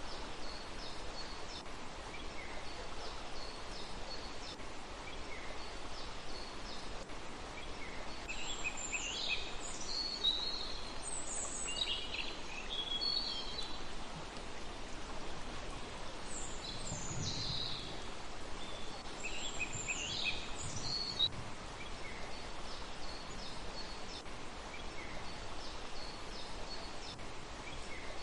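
Small birds calling and singing over a steady hiss. Faint short chirps repeat throughout, with two livelier runs of quick up-and-down notes near the middle.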